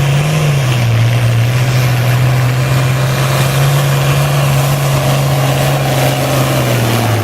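International Harvester 966 tractor engine running hard at full throttle while pulling the sled down the track, holding one steady pitch. Near the end the engine note drops as the pull ends.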